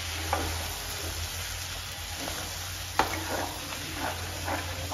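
Chicken masala sizzling as it is fried uncovered in a frying pan, with a spatula scraping and knocking against the pan as it is stirred; the sharpest knock comes about three seconds in, followed by a few softer scrapes.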